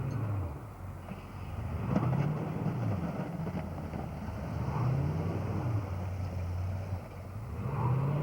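A vehicle engine revving up and easing off again and again, its pitch rising and falling about every two to three seconds, with a short sharp knock about two seconds in.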